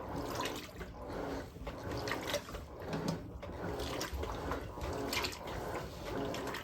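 Water sloshing and swishing in the tub of an Electrolux LM08A top-loading washing machine as it works a load of towels, in irregular surges about once or twice a second.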